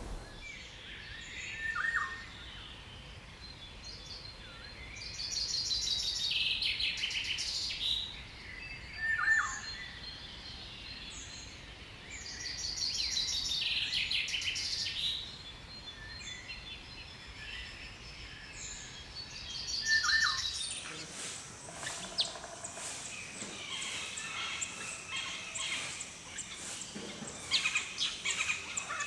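Birds calling: a short call that drops in pitch returns about every seven seconds, between longer rapid trills. About two-thirds of the way through, a different, busier set of chirps takes over.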